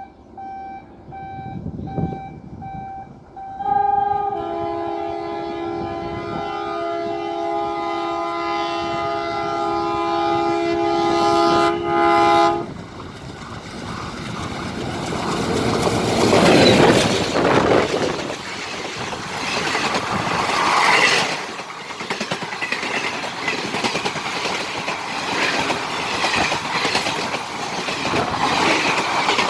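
ALCO diesel locomotive sounding its multi-tone horn, in short broken blasts and then one long blast from about four seconds in that cuts off near the halfway point. Then the locomotive and its ICF coaches pass at speed: a loud rumble with wheels clattering over rail joints.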